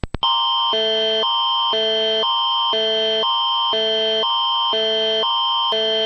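Canadian Alert Ready emergency alert attention signal: two chords of steady tones alternating every half second, one higher and one lower, over a high tone held throughout. It starts just after two short blips at the very beginning.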